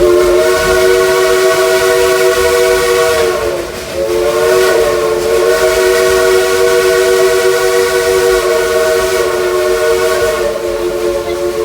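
Steam locomotive whistle blowing two long blasts, a chord of several notes at once. The first lasts about three and a half seconds; after a brief break, a longer one lasts about seven seconds.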